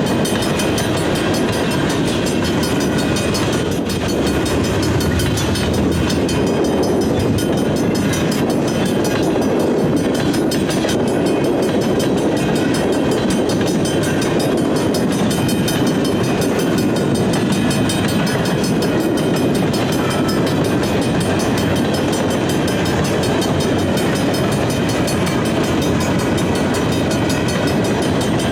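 Canadian Pacific freight train rolling steadily through a level crossing, a continuous loud rumble of wheels on rail with clatter from the passing cars.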